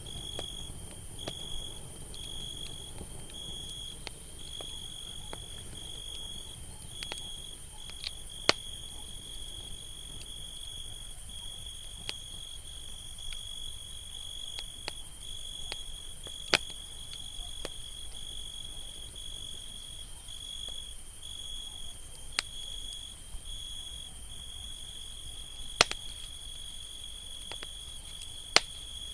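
Campfire burning with a low rumble and a few sharp crackling pops, over crickets trilling steadily at a high pitch with brief breaks.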